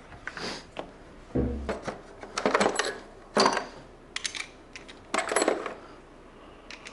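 Metal hand tools clinking and rattling in irregular bursts during work on a car engine.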